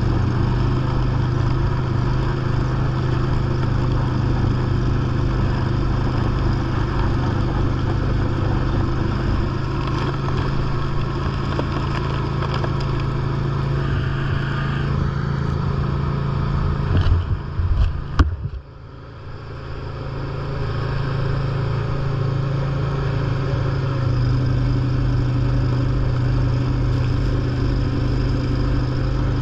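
John Deere lawn tractor's engine running steadily under the load of its snow blower. A little past halfway there are a few sharp knocks, then the sound drops off suddenly and builds back up over about two seconds.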